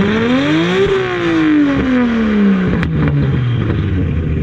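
Straight-piped Nissan Skyline engine revved once: the pitch climbs for about a second, falls back slowly and settles into a steady idle. A short sharp click comes about three seconds in.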